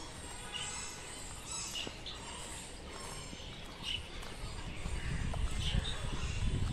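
Small birds chirping with short, scattered high calls. A low rumble rises near the end.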